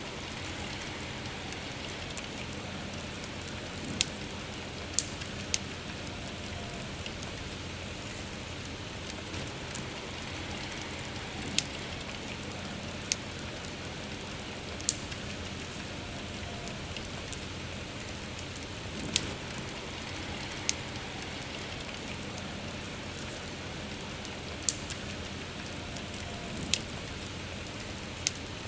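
Steady rain with a campfire crackling, giving sharp single pops every one to three seconds over the even hiss of the rain.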